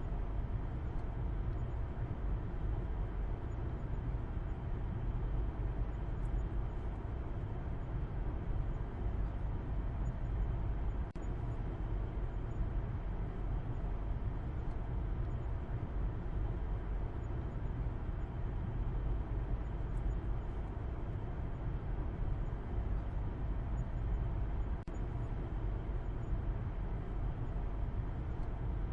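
Steady low rumble of a car driving: continuous road and engine noise, heaviest in the bass, with two brief dips about eleven and twenty-five seconds in.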